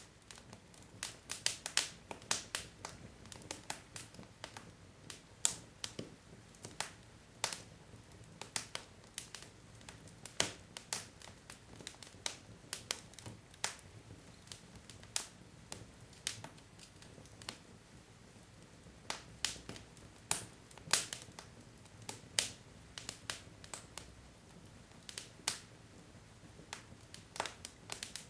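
Wood fire crackling: burning logs popping and snapping in irregular clusters of sharp cracks, over a soft steady hiss of flame.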